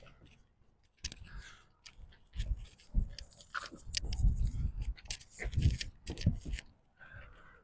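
Irregular clicks and short knocking and rubbing noises from close handling, coming in clusters with brief gaps between them.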